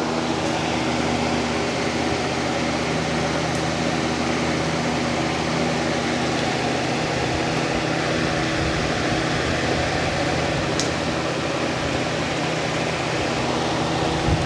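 Lasko B20200 20-inch box fan running steadily: an even rush of air over a low motor hum. A broken blade leaves it badly out of balance, enough to shake the bench it stands on.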